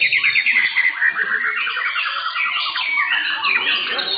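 Several white-rumped shamas (murai batu) singing at once, their loud whistled phrases overlapping. Near the start there is a fast run of repeated notes, followed by a lower run of quick repeated notes.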